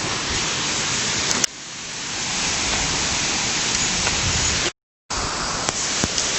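Steady rushing noise of water. About a second and a half in it drops suddenly and then builds back up over a second. Near five seconds there is a brief, complete dropout.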